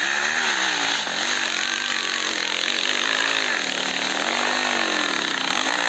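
Two-stroke enduro motorcycle engine running hard, its pitch rising and falling repeatedly as the throttle is worked.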